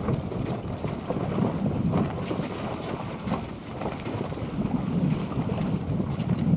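Wind buffeting the microphone aboard a sailboat under way, a low, uneven rumble.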